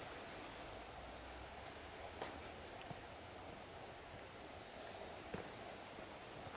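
A small bird calling: a run of five quick, very high, thin chirps, then three more a few seconds later, over a steady background hiss.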